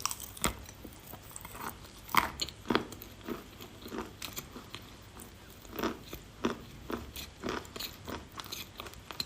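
A piece of chalk being bitten and chewed, with irregular sharp crunches about every half second.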